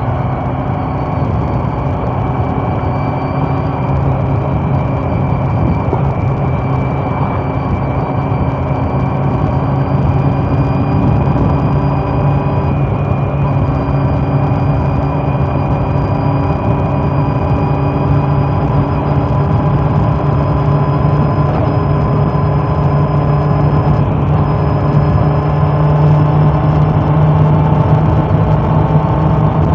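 Honda CB400 Super Four's inline-four engine running steadily under way, its note creeping slowly higher and a little louder through the stretch.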